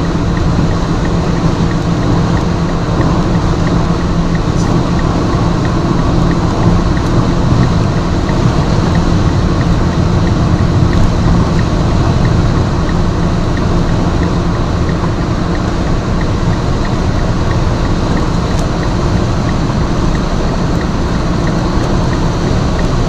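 Fiat Grande Punto heard from inside the cabin at sustained high speed under full acceleration: a steady engine drone mixed with heavy wind and tyre noise, with no gear change.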